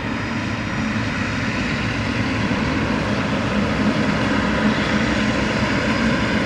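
Jet engines of a Boeing 777-300ER running, a steady dense noise that grows slowly louder.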